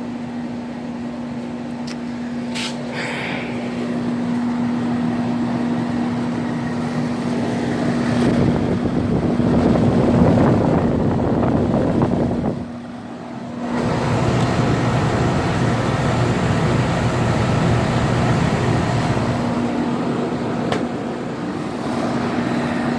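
2006 Rheem Classic straight-cool central air conditioner condensing units running in cooling mode: a steady compressor hum under the rush of the condenser fans. The noise swells and dips briefly about halfway through.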